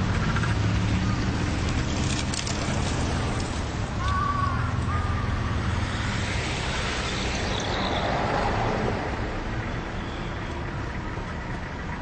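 City road traffic: car engines running and tyre noise from vehicles on the road, with a brief high chirp about four seconds in.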